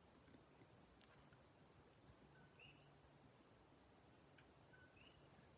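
Crickets trilling faintly at night, one steady high-pitched note, with two tiny faint chirps about two and a half seconds in and near the end.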